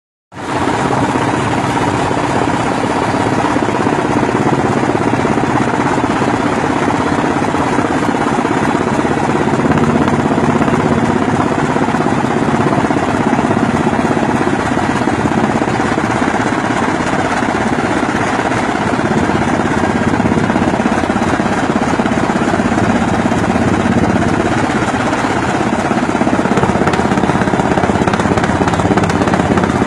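Helicopter engine and rotor noise, steady and unbroken, with a constant low hum.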